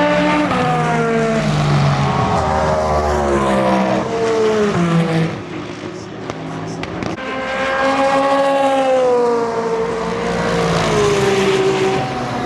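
Endurance race cars passing at speed on track, several engine notes overlapping and falling in pitch as they go by. There are two waves of passing cars, with a brief lull in the middle.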